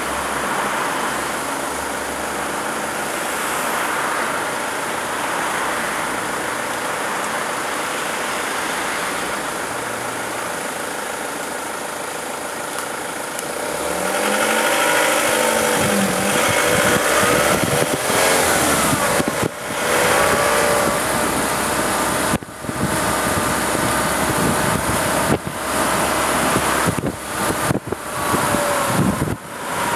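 Car engine and road noise in slow city traffic, idling at first. About halfway through the engine revs up and the sound grows louder as the vehicles move off. Near the end the sound drops out briefly several times.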